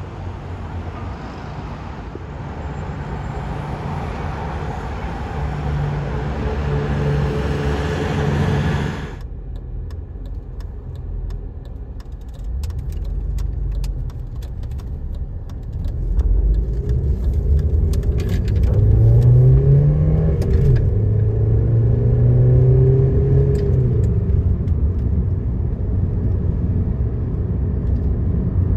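Car engines on the street, heard in two stretches with a sudden change about nine seconds in. In the second stretch an engine revs up, holds its note and drops back again.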